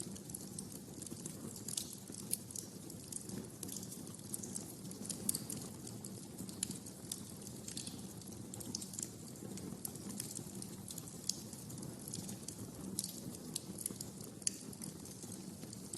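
Wood fire in a fireplace crackling: a soft steady rumble of the flames with irregular sharp pops and snaps.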